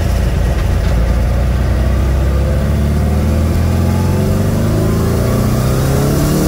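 Turbocharged air-cooled VW Beetle flat-four engine pulling hard under acceleration, its pitch climbing steadily from a couple of seconds in.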